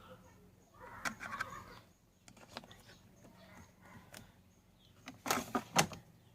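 Bauknecht front-loading washing machine in operation: a faint steady hum with irregular clicks and knocks, and a louder cluster of knocking and rustling about five seconds in.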